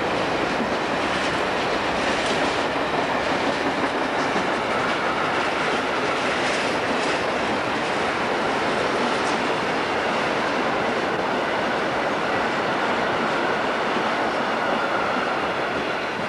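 Freight train of tank wagons and flat wagons rolling past on the near tracks, its wheels clattering steadily on the rails. The sound eases off slightly near the end.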